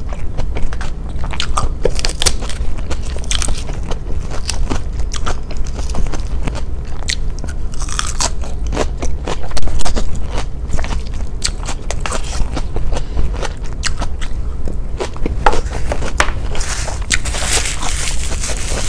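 Close-miked chewing of crisp fresh salad greens, with many sharp crunches and a loud cluster of bites about halfway through. Near the end a paper tissue rustles.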